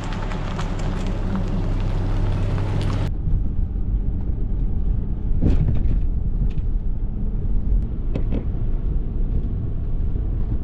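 Steady rain hiss with a low rumble under it. About three seconds in it cuts abruptly to a duller low rumble with a few light knocks.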